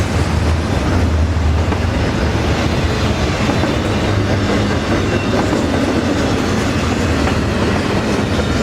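Double-stack container freight train rolling past close by, a steady loud rumble of wheels on rail. A low hum is strongest in the first couple of seconds, then eases.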